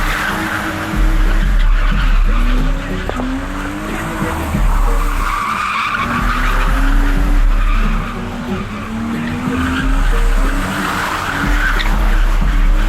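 Cars drifting: tyres screeching in repeated spells while engines rev up and down.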